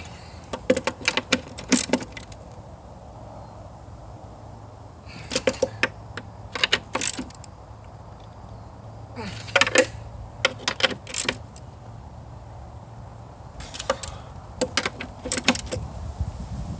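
Metal hand wrench tightening the jet pump's mounting nuts by hand: short runs of sharp metallic clicks in four bursts, with pauses between them as it moves from nut to nut to tension them evenly.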